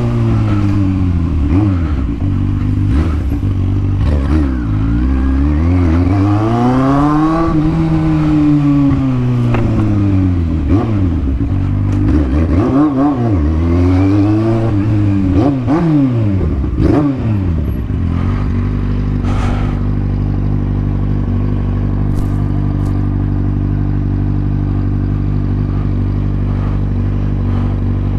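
Kawasaki Z750 inline-four motorcycle engine with an open exhaust pipe, repeatedly revving up and easing off while riding. About two-thirds of the way through it settles into a steady idle.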